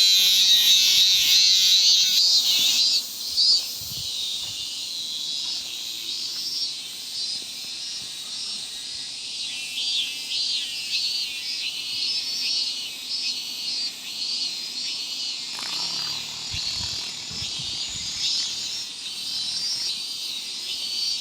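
Minmin cicadas (Hyalessa maculaticollis) singing in high, pulsing, repeated notes. The song is loud for the first three seconds or so, then goes on as a steadier chorus.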